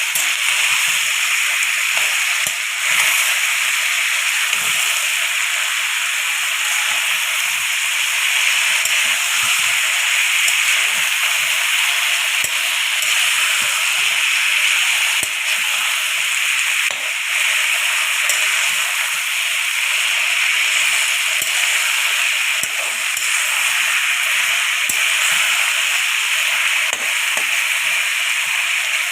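Vegetables frying in hot oil in a pan, a steady sizzle, with faint taps and scrapes of a spoon stirring them.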